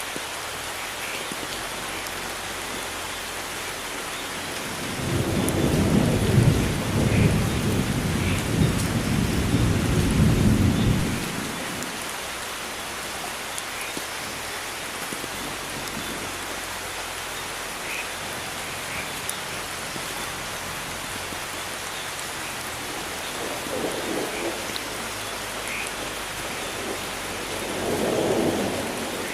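Steady rain with thunder rolling in: a long low rumble starting about five seconds in and lasting some six seconds, then two fainter rumbles near the end.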